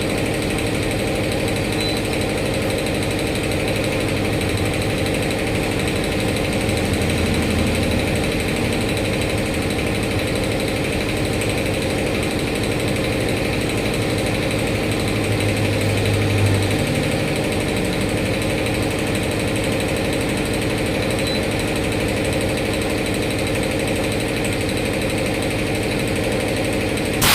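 A machine running steadily with a fast, even rattle, with no change in level throughout.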